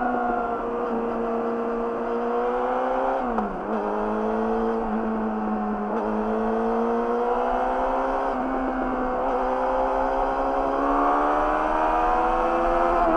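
Yamaha YZF-R6's inline-four running through an Akrapovic slip-on exhaust at steady revs while riding. The pitch dips briefly and recovers about three and a half seconds in, then climbs slowly toward the end.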